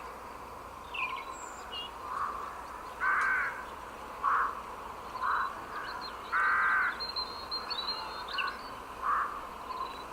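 Bird calls coming out of an HP computer's speaker: a run of short, harsh crow-like caws about once a second, mixed with faint, higher chirps of several birds. They play unbidden and stop when the sound is muted; the owner guesses a virus is behind them.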